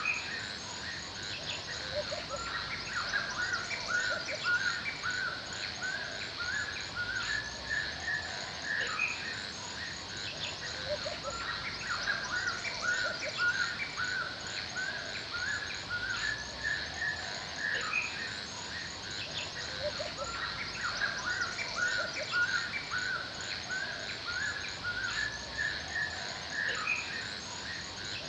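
Forest ambience: several songbirds calling and chirping in short repeated notes throughout, over a steady high-pitched insect chirring in the background.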